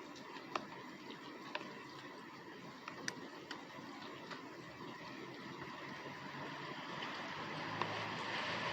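Rain falling in a steady patter, with separate drops landing in sharp, irregular ticks. The rain grows louder toward the end.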